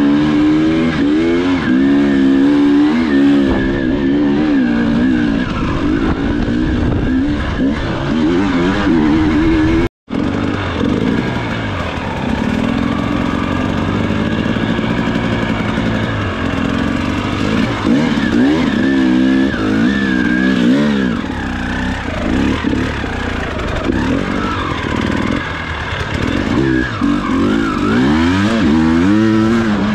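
Enduro motorcycle engine revving hard and constantly, its pitch rising and falling with the throttle and gear changes. The sound cuts out for an instant about ten seconds in.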